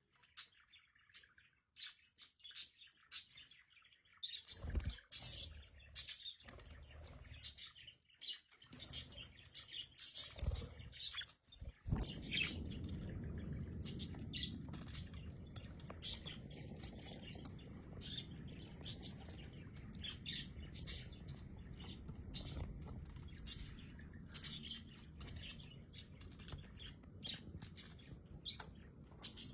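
Small pet parrots chirping and chattering in quick, short high calls. A few dull thumps come in the first twelve seconds, and then a steady low rumble sets in under the chirping.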